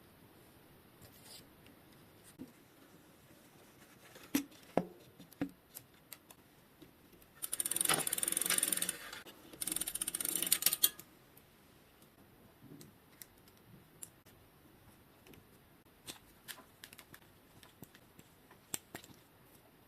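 Small metal clicks and taps from a bicycle chain and drivetrain being worked by hand, with two runs of fast, dense rattling clicks, each about a second and a half long, in the middle as the chain is handled during its removal.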